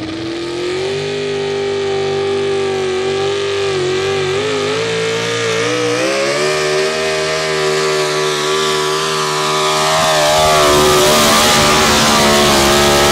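Modified 4x4 pulling truck's engine running at high revs under full load during a pull, its pitch climbing about a second in and again around six seconds. It grows louder near the end.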